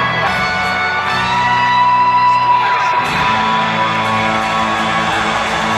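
Live band music from a concert, with guitar prominent over long held notes; the bass moves to a new chord about three seconds in.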